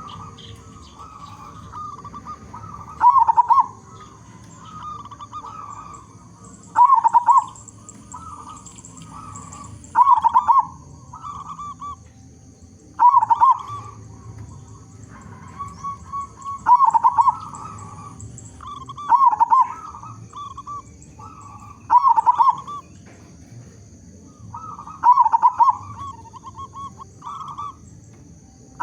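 Zebra dove (perkutut) singing its cooing song over and over. A loud phrase comes roughly every three seconds, with softer rolling coos in between.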